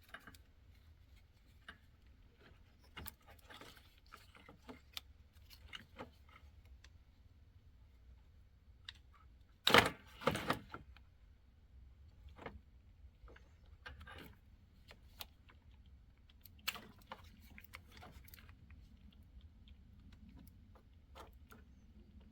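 Scattered light clicks and scraping of hands working plastic clips off old wiring loom, with one louder clatter about ten seconds in.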